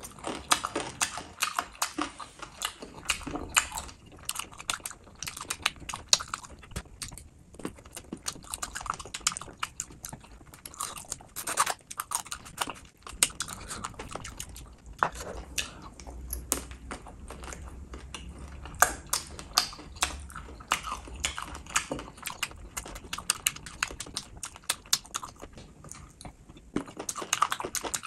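Close-miked eating sounds: biting into and chewing a gravy-covered chicken drumstick, with wet smacking and many sharp, irregular clicks of the mouth and teeth.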